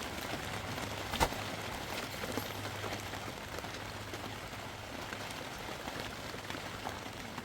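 Steady patter of rain, with one sharp knock about a second in.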